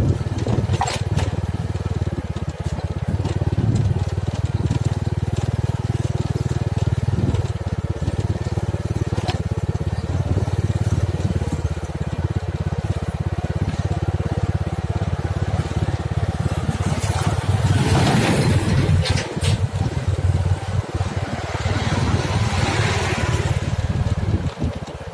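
Engine of earth-moving machinery running steadily, with a few sharp knocks and two longer bouts of crunching and scraping of dirt and stone in the second half.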